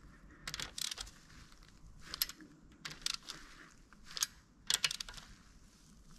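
Light, irregular clicks and clinks of small metal engine parts and hand tools being handled and set down, about eight separate taps.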